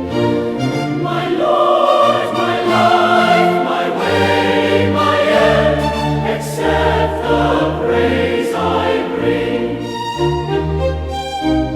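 Choir singing a slow hymn in sustained harmony.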